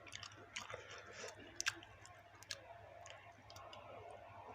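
Close-up chewing of chewy baso aci tapioca meatballs, with scattered wet mouth clicks and smacks, two of them sharper about a second and a half and two and a half seconds in.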